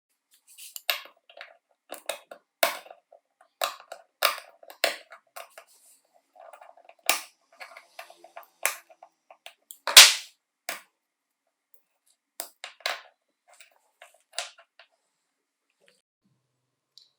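A series of irregular sharp knocks and taps, the loudest about ten seconds in.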